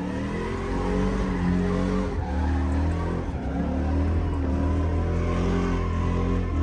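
Truck engine revving under load, its pitch climbing and dropping back several times.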